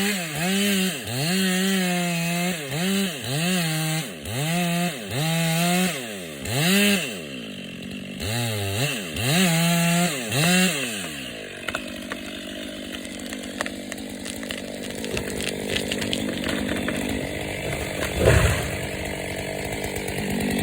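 Chainsaw cutting through a dry tree, its engine pitch dipping and recovering over and over as the chain bites and clears, about a dozen times. The saw goes quiet about eleven seconds in, leaving crackling and rustling with scattered snaps and one loud thump near the end.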